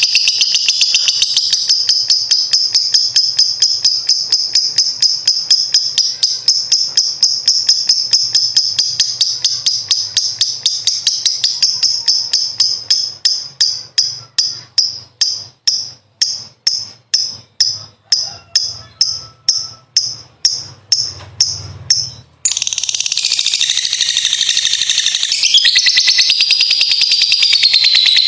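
Lovebird's long, high-pitched chattering trill ('ngekek panjang'), a dense run of rapid notes that breaks into separate pulses about two a second. It cuts off abruptly and another continuous stretch of chatter starts in the last few seconds.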